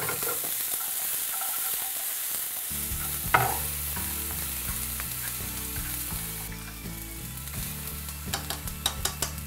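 Chopped red onion and garlic sizzling in hot oil and sugar caramel in a nonstick frying pan, stirred with wooden chopsticks that knock once sharply about three seconds in and click against the pan several times near the end.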